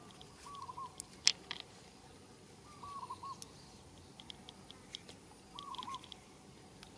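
A bird calls three times, each call a short hooked note followed by two quicker ones, over small clicks and scratches of fingers digging in stony soil and handling glass marbles; the sharpest click comes about a second in.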